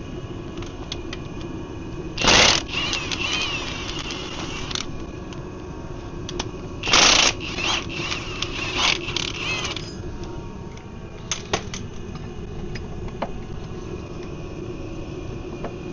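Steady heavy rain, with hand tools working on bolts under a van: two short loud rattling bursts about two and seven seconds in, a few smaller ones after, and scattered sharp clicks.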